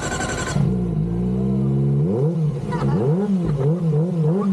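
Kawasaki ZX-25RR inline-four with an Arrow exhaust starting with a short clatter, running steadily at a raised idle, then revved in quick repeated throttle blips from about two seconds in, roughly two a second.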